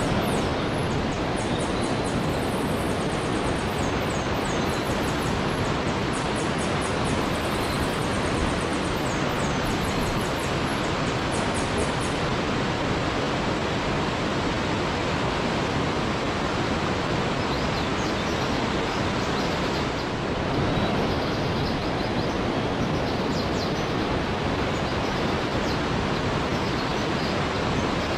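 Waterfall rushing steadily, with rows of very high, quick chirps over it through the first half and fainter high chirps later on.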